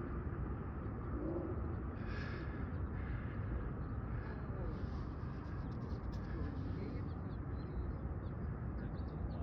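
Steady outdoor background rumble with faint, short bird chirps scattered through the second half.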